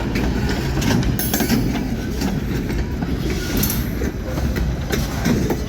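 Freight train's cars rolling past: a steady rumble with scattered clacks of the wheels over the rail joints.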